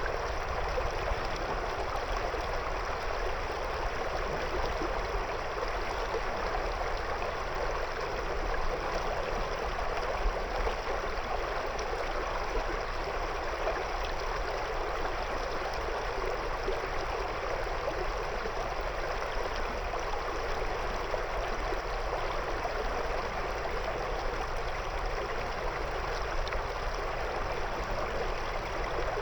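River water flowing and gurgling around stones, a steady, even rushing with no pauses.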